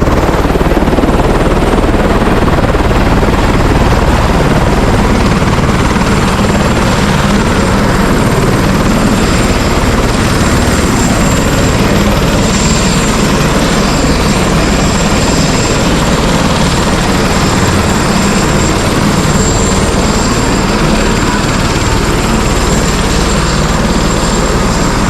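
Tour helicopter in flight: a loud, steady rotor and engine roar that holds unchanged throughout.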